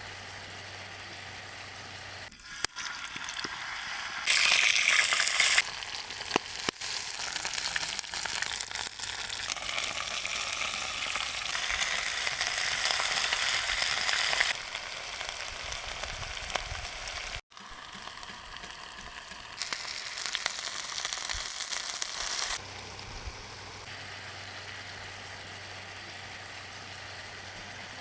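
Chicken frying and sizzling in a pan, in several stretches that start and stop abruptly. The sizzling is loudest about four seconds in, again from about nine to fourteen seconds, and once more around twenty seconds. There are a few sharp clicks, and a low steady hum runs through the quieter stretches at the start and end.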